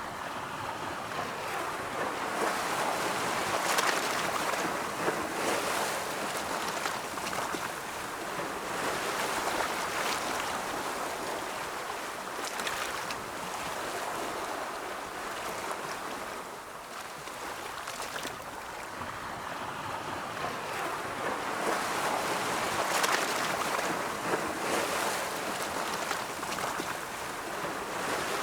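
Ocean waves rolling in and washing on the shore, a steady rush of surf that swells and eases in slow surges every several seconds.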